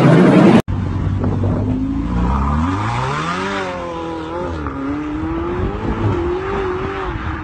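Sports car engine revving hard as the car accelerates away: its note rises steeply for about two seconds, then holds high and wavering. Less than a second in, a louder stretch of car noise from a tunnel cuts off abruptly.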